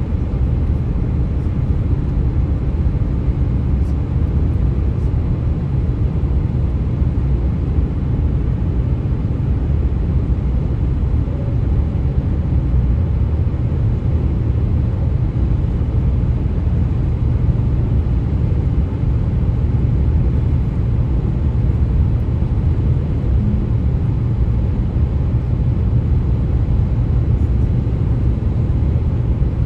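Steady low rumble of a vehicle's tyres running on highway pavement at speed, with a faint steady hum under it.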